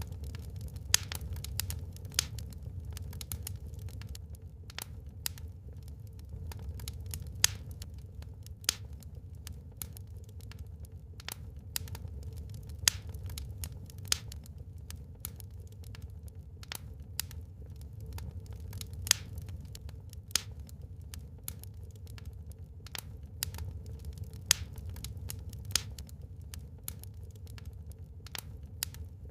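Wood fire crackling: irregular sharp pops and snaps, several of them loud, over a steady low rumble.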